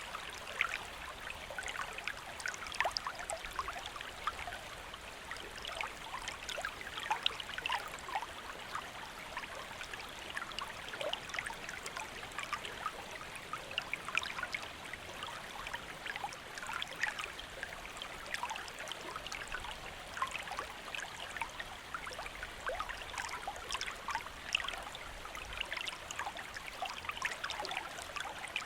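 Stream water flowing and burbling over rocks, a steady rush dotted with many small splashes and trickles.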